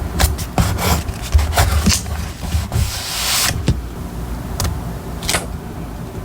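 Paper and journaling materials being handled: a series of short rubbing and scraping strokes, with a longer rustle about three seconds in, over a steady low rumble.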